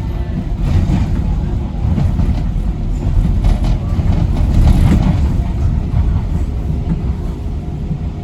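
Docklands Light Railway train cab: a steady low rumble with clatters and rattles, loudest about halfway through.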